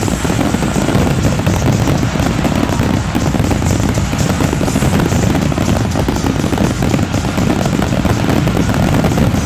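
Fireworks grand finale: a continuous barrage of shells bursting and crackling in rapid overlapping volleys, with a deep rumble of booms underneath and no pause.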